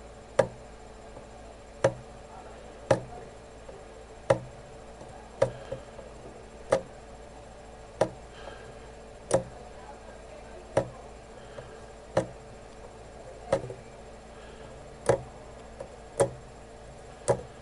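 Sharp, short clicks or taps about once every second or so, slightly uneven in spacing, over a faint steady electrical hum.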